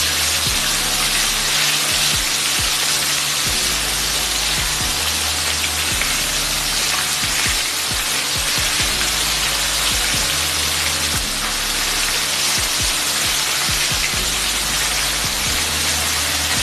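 Breaded chicken pieces frying in hot oil in a pan, a steady sizzle, with background music's bass line underneath.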